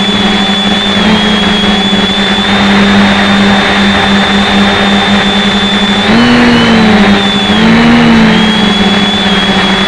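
Electric motors and propellers of a 550 mm quadcopter buzzing steadily, heard through a key chain camera strapped to the frame. About six seconds in the pitch jumps up and falls back, then swells again around eight seconds as the motors change speed.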